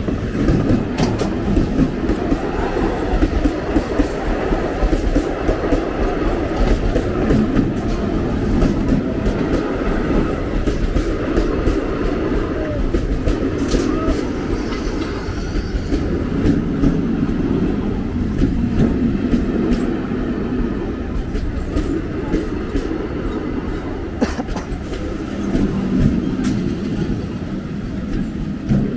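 Electric multiple-unit suburban train passing close by: a steady, loud rumble of the coaches rolling on the rails, with wheels clicking over the rail joints.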